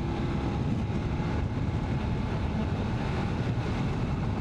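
Motorcycle riding sound from a BMW F850 GS Adventure: its parallel-twin engine running steadily at road speed, mixed with wind rush on the rider's microphone.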